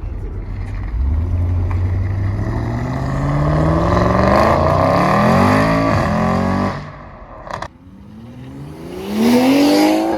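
A car engine accelerating hard, its pitch rising steadily for about five seconds before the sound cuts off. Near the end the engine revs up sharply again and falls away.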